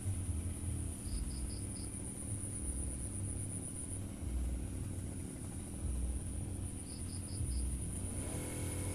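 Firman FGB 528 brush cutter engine running at low idle with an uneven low rumble, then revving up near the end. An insect's steady high-pitched buzz runs over it, and two short runs of four quick chirps come about a second in and again about 7 seconds in.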